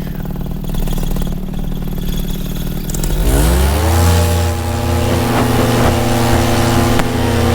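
Paramotor's two-stroke engine and propeller running low, then throttled up about three seconds in, the pitch rising over about a second to a steady high-power run for the launch.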